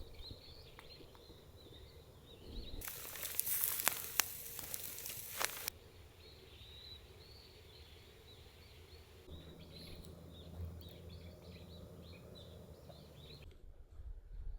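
Small birds chirping in high, short wavering calls. About three seconds in, a loud hiss with sharp crackles and clicks lasts nearly three seconds and then stops abruptly. The chirping cuts off near the end.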